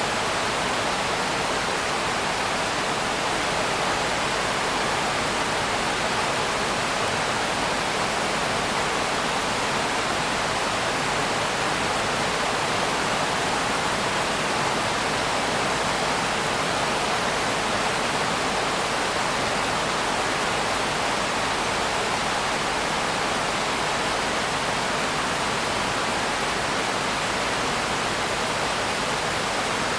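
Steady, dense rain: an even hiss with no single drops or thunder standing out.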